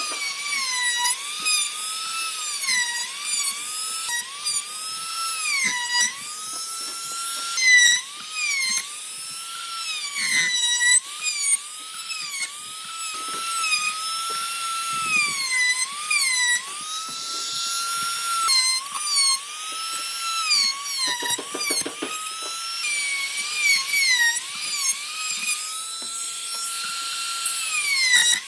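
A high-speed power tool working wood, its whine dropping in pitch and recovering again and again, about once a second, as it bites and eases off. There is a brief rattle a little past two-thirds of the way through.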